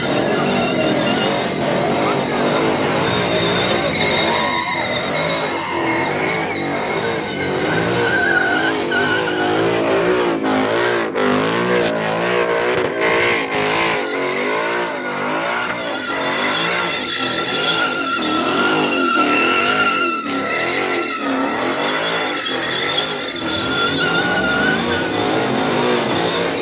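Ford Mustang doing donuts: its tires squeal continuously while the engine revs rise and fall over and over.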